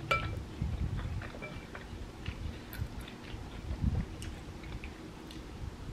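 Close-miked chewing of chewy rice cakes with small wet mouth clicks. A metal spoon clinks once against a ceramic bowl right at the start, with a brief ring.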